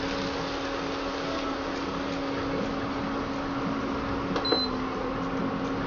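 Chopped spring onions frying in oil in a kadhai, a steady soft sizzle, with the steady hum of the induction cooktop underneath. One light click of the spatula against the pan about four and a half seconds in.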